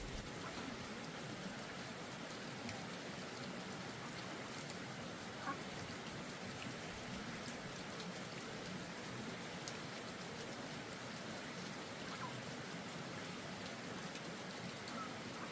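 Steady patter of falling water, with one brief louder tap about five seconds in.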